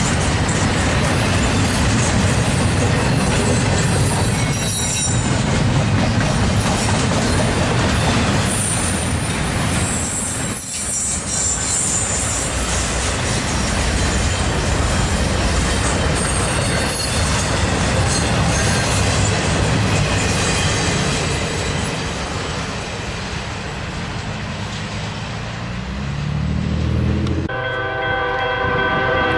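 Freight train rolling past close by: steady rumble of wheels on rail with thin, high wheel squeals about ten seconds in. Near the end the train noise cuts off suddenly and a locomotive's multi-note air horn sounds, held steady.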